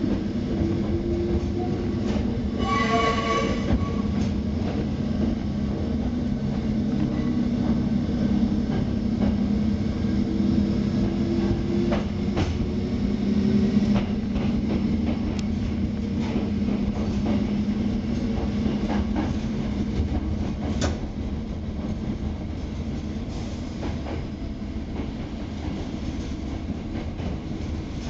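Hakone Tozan Railway electric train running through a tunnel, heard from inside the cab: a steady rumble of wheels and motors with a whine that rises in pitch, and scattered clicks of the wheels over the rail joints. A brief pitched tone sounds about three seconds in.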